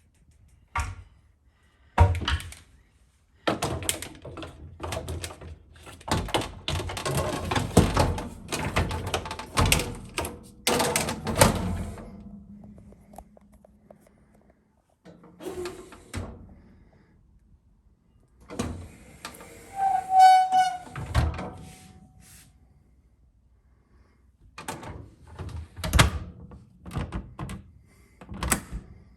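Brandt K24 mini dishwasher being handled: irregular knocks and clunks, with a denser run of rattling and clattering early on the middle stretch and a short high squeak-like tone about two-thirds of the way through.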